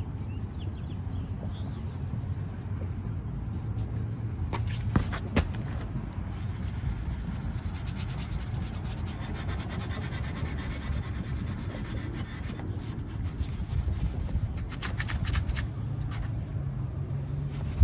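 Chrome exhaust tip being rubbed by hand with heavy-cut polishing compound: a steady rubbing and scrubbing, with a few light clicks along the way.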